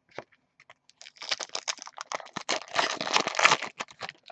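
Trading card pack and cards being handled: rapid crinkling and clicking of the foil wrapper and card stock. It starts about a second in and stops shortly before the end.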